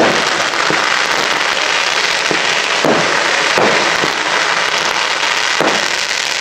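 Fireworks display: a dense, continuous crackle of firework effects, with five louder bangs scattered through.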